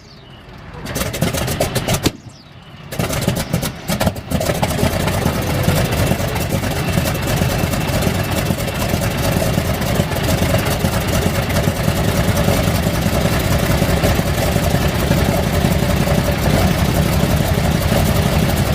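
Old piston aircraft engine cold-starting: it cranks and sputters unevenly, dies back for a moment, fires a few ragged times, then catches about four seconds in and runs steadily with rapid firing pulses.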